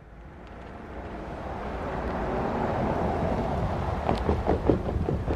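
Diesel freight locomotives approaching, a low engine rumble that grows steadily louder, with a quick run of sharp clanks from the wheels on the rails near the end.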